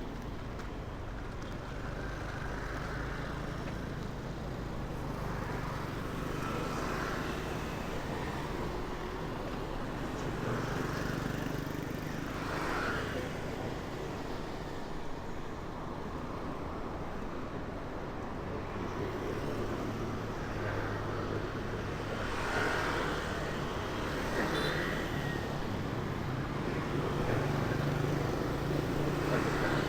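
Street traffic: a steady hum of vehicle engines and road noise, with several vehicles swelling past and fading.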